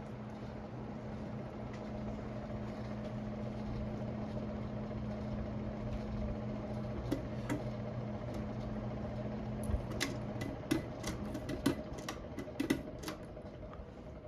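Hampton Bay Gazebo Plus ceiling fan motor running with a steady hum. The hum stops about ten seconds in, and a quick series of sharp clicks follows over the next few seconds.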